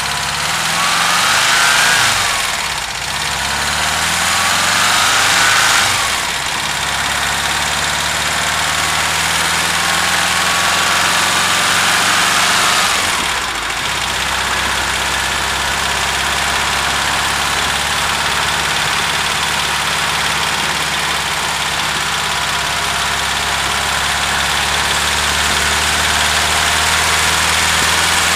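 VW Vanagon T3 engine blipped up in revs three times, then settling to a steady idle. This is the engine with the knocking/ticking noise that the owner is showing.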